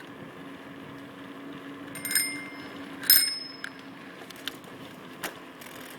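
Bicycle bell rung twice, about a second apart, each ring short and bright, with a few light clicks afterwards.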